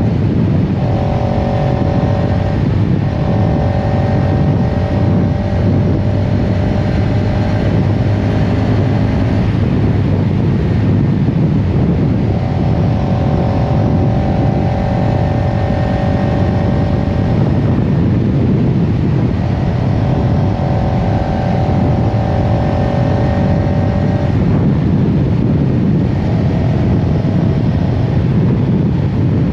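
CFMoto CLX-700 Heritage's parallel-twin engine running while riding, under heavy wind and road noise. A steady tone holds for several seconds at a time, breaks off, and returns.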